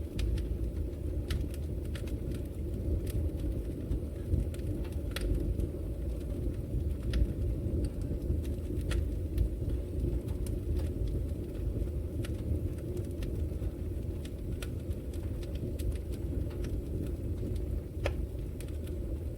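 Wood logs burning in a fireplace: a steady low rumble of the flames with scattered sharp crackles and pops throughout.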